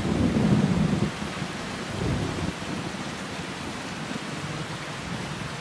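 Heavy rain falling steadily, with low rumbles of thunder that are loudest in the first second and swell again about two seconds in before easing to the steady hiss of the rain.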